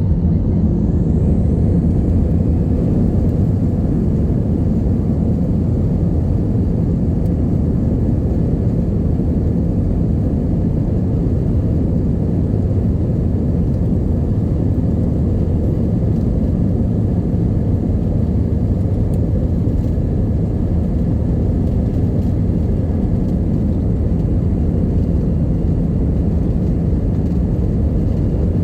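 Passenger plane's engines and rushing air heard inside the cabin during takeoff: a steady, loud, low rumble.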